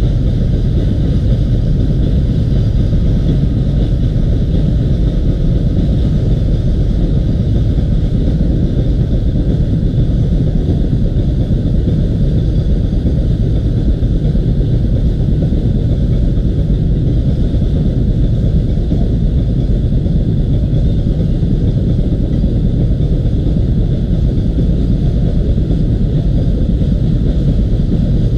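Loaded freight train climbing a grade behind twin EMD diesel locomotives: a steady low rumble as its wagons roll past.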